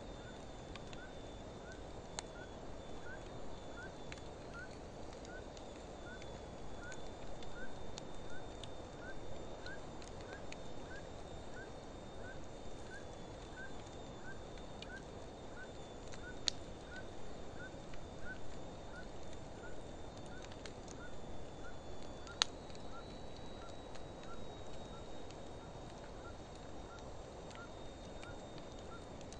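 Wood fire burning in an open fire pit: a steady low rustle that swells now and then, with a few sharp crackling pops. Over it a short rising chirp repeats about every two-thirds of a second, with a thin steady high tone, from an animal outdoors.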